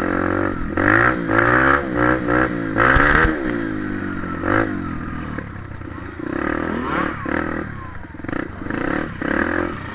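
Dirt bike engine being ridden, its revs rising and falling over and over as the throttle is worked.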